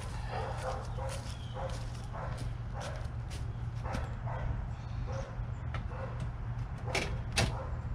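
A dog barking over and over, short calls about once or twice a second, with a few sharp clicks and a steady low hum underneath.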